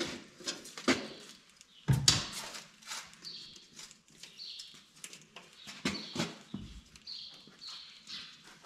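Scattered clicks, knocks and short scrapes of hand work on an excavator engine as a filter is fitted, with a louder knock about two seconds in.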